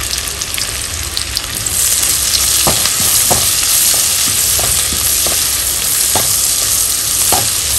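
Sliced leeks and green chillies sizzling in melted butter in a wok, the hiss growing louder about two seconds in. A silicone spatula stirs them, giving about six light taps and scrapes against the pan.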